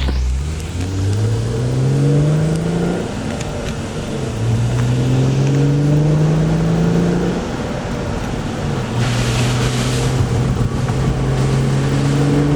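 Hyundai Tiburon's engine accelerating through the gears: its pitch climbs, drops at an upshift about three seconds in, climbs again, then holds steady at cruising speed. A brief hiss about nine seconds in.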